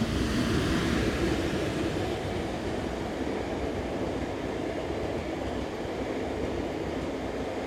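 Train rolling past close by: new 90000 series railcars on a locomotive-hauled delivery, their wheels running steadily over the rails. Loudest in the first couple of seconds, then steady.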